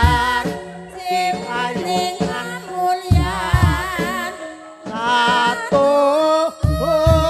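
Javanese gamelan music for ebeg: a high voice sings a wavering melody over ringing metallophone tones, with deep kendang drum strokes every few seconds.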